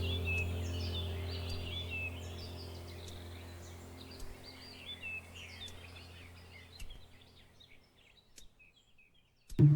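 Small birds chirping in quick, repeated calls over a low steady drone, both fading out to near silence, with music starting sharply at the very end.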